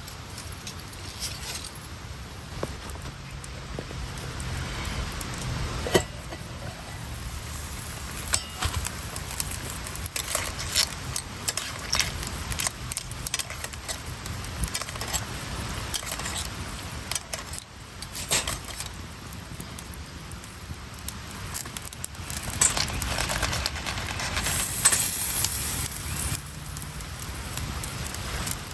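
Wood campfire crackling and popping, with light metallic clinks of cookware; a louder hiss swells for a couple of seconds near the end.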